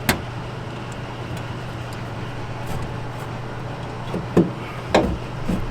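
Steady low mechanical hum of rooftop HVAC equipment, with a few sharp metallic clicks and knocks from hand tools working on the unit's inducer motor mounting: once just after the start and twice near the end.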